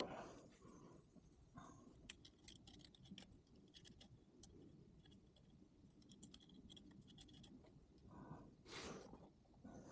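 Faint scraping and light clicks of small hand-tool work on a 1969 VW Beetle's distributor points, with a longer rasp near the end.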